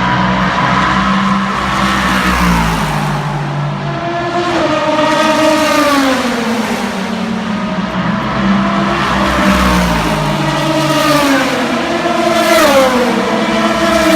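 Endurance race cars passing at speed, several engines heard at once, the pitch of each dropping as it goes by and more cars following close behind.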